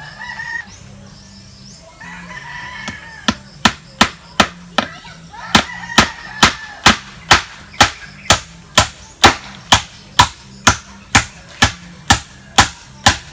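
Hammer driving a long nail into wood, a steady run of sharp strikes about two a second that begins a few seconds in.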